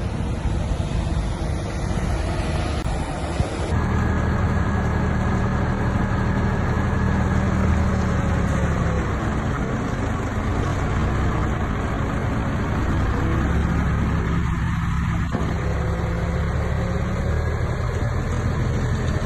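Diesel engine of heavy earthmoving machinery running steadily with a low drone, its sound shifting abruptly about four seconds in.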